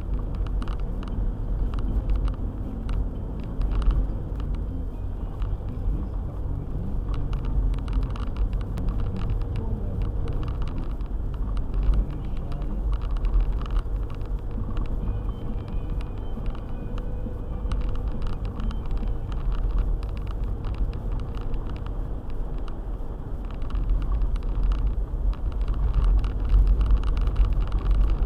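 All-wheel-drive car driving on a snowy road: a steady low rumble from engine and tyres, with frequent light clicks and knocks throughout, getting a little louder near the end.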